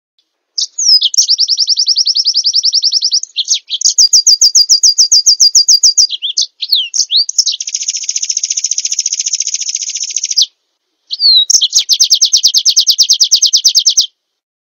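Small songbird singing a series of long, fast trills of rapidly repeated high notes, four in all, each several seconds long. Short swooping notes come between them, and the trills start and stop abruptly.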